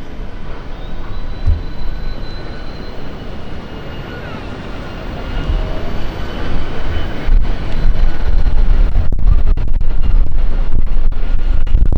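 Street ambience overlaid by wind buffeting the microphone: strong gusts of low rumbling set in about seven seconds in and keep going loudly.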